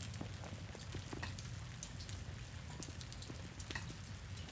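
Light rain falling on ice-coated ground and trees: scattered drops tick irregularly, many times a second. A low, steady hum runs underneath.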